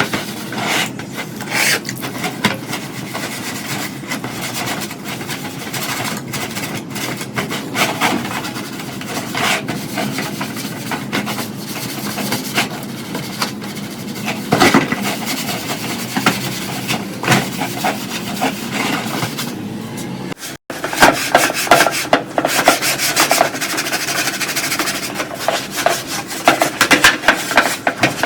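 Hand rust removal on the exhaust fan's metal parts: rubbing and rasping abrasive strokes. After a brief break about two-thirds of the way through, the strokes come faster and louder.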